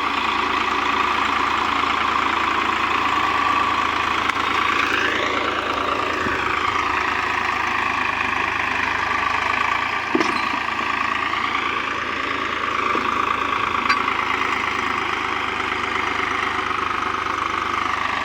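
Tractor engine labouring under heavy load, its pitch rising and falling twice as the revs change, with a couple of brief knocks.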